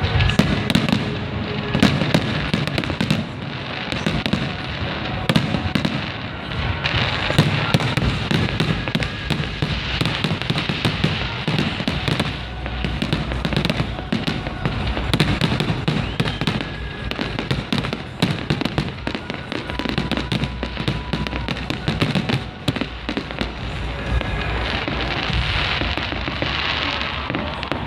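Fireworks display: a continuous barrage of bangs and crackling from bursting shells, with music playing underneath.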